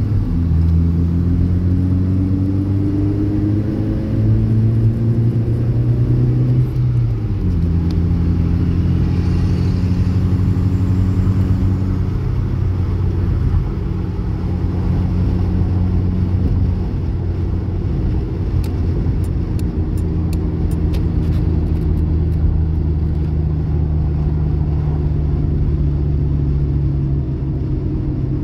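Car engine heard from inside the cabin, pulling under throttle. Its pitch steps down sharply about seven seconds in, then holds a steady drone that slowly sags.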